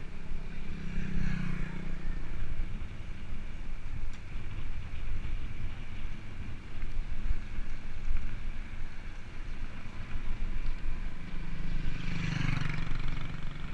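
Steady low rumble of wind and road noise on the move, with two motor vehicles passing by, one about a second in and another near the end.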